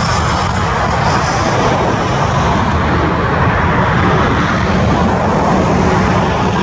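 Airbus A350-900 jet engines running, a loud, steady rumble.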